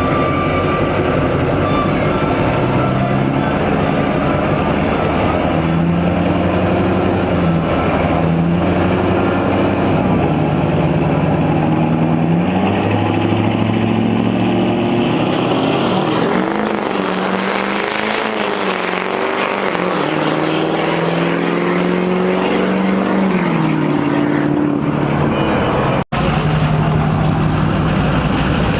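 Loud diesel pickup truck engines running and revving, the pitch repeatedly rising and falling, with a brief dropout in the sound near the end.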